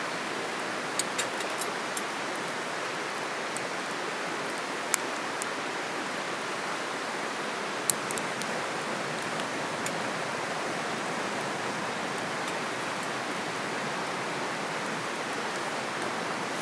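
Steady rush of a flowing river, with a few sharp pops or clicks over it, the loudest about five and eight seconds in.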